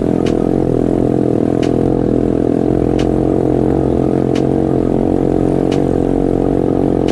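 A vehicle engine running steadily, with a sharp click about every second and a half.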